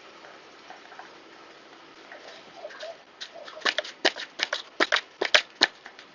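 A quick, irregular run of about a dozen sharp clicks and taps over a steady faint hiss, starting a little past halfway.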